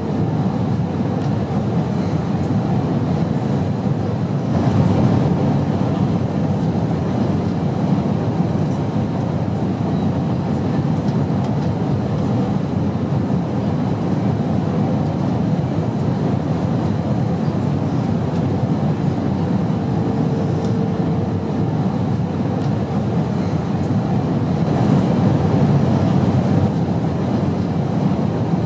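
Steady airplane noise in flight: an even, low rumbling roar with slight swells in loudness about five seconds in and near the end.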